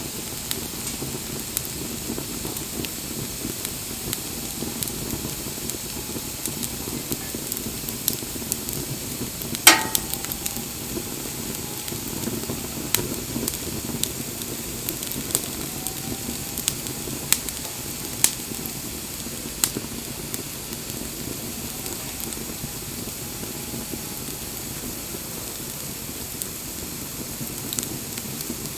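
Wood bonfire burning with a steady hiss and scattered sharp crackles, and one loud pop about ten seconds in.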